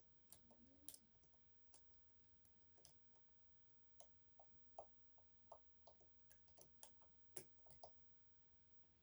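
Faint, irregular clicking of a lock pick and tensioner working the sliders inside an EVVA 3KS high-security lock, with the clicks coming thicker between about four and eight seconds in.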